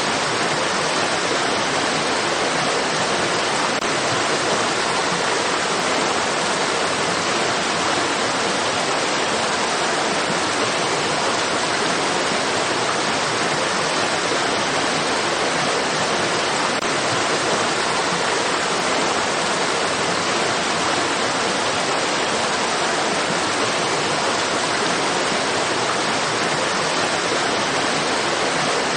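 Stream water rushing steadily, an even hiss-like wash with no changes or separate splashes.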